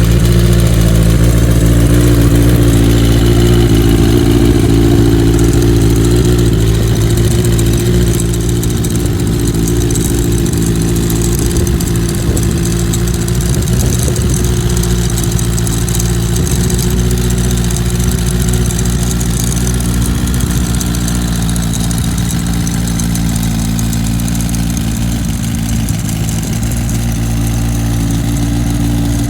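Oil-cooled Suzuki GSX-R1100 inline-four engine in a Harris Magnum 4 motorcycle, running steadily at idle. It is a little louder for the first eight seconds or so, then settles to a lower, even idle.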